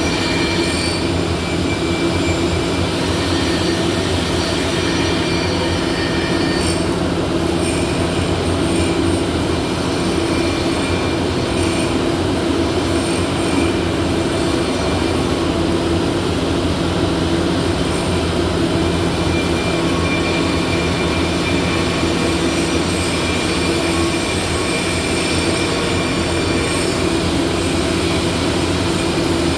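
Steady, loud machine drone with a constant low hum and a faint high whine, unchanging throughout.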